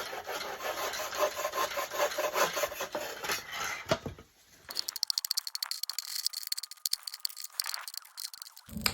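Hand saw cutting through wood in repeated back-and-forth strokes. After about four and a half seconds it gives way to a quick run of sharp clicks.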